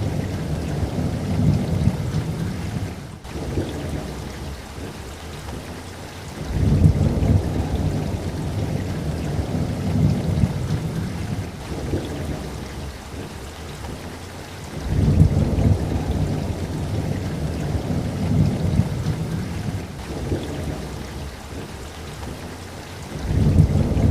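Steady rain with rolling thunder, the deep rumbles swelling and fading about every eight seconds.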